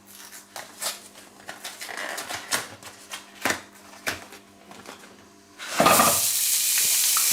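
Scattered light clicks and taps of handling. About six seconds in, a sudden loud sizzle starts as frozen vegan burger patties go into hot coconut oil in a frying pan, and it carries on steadily.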